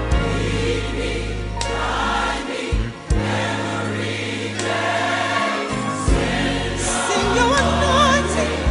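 Gospel choir singing with instrumental backing over sustained bass notes; a wavering lead vocal line stands out near the end.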